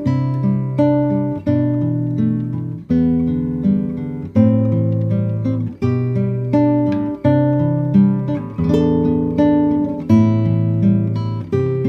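Background music: acoustic guitar strumming chords in a steady rhythm, each chord struck and left to ring.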